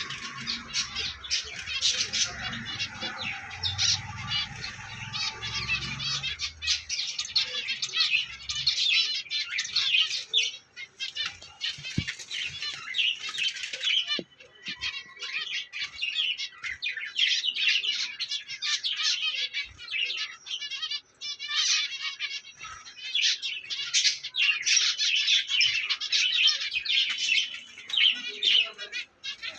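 A flock of caged finches chirping constantly in many short, overlapping calls, with bursts of wing fluttering.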